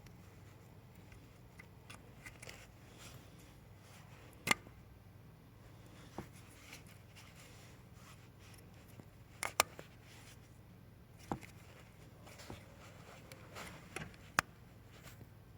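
Scattered sharp clicks and taps of hand work on engine parts, a few seconds apart, over a faint steady hum.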